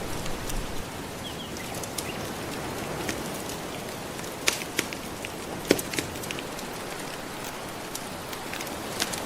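Wood fire crackling with scattered sharp pops, a cluster of louder ones about halfway through, over a steady wash of gentle ocean waves.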